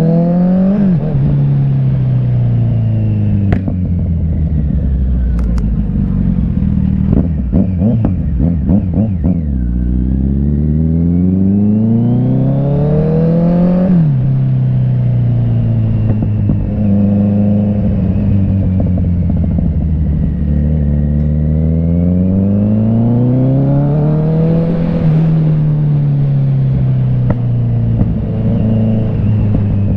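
Kawasaki Z900's inline-four engine running through an aftermarket CS Racing exhaust, twice climbing slowly in revs and falling back. A burst of crackling pops comes on the overrun a few seconds in, from the air injection system (AIS) not being blocked off.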